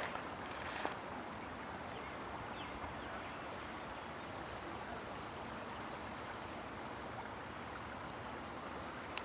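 Steady rush of a flowing stream, with a couple of short crackles in the first second.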